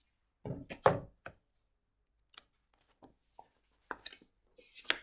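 Knocks and taps from a hardback picture book being handled: a cluster of knocks about half a second in, then scattered single taps through the rest.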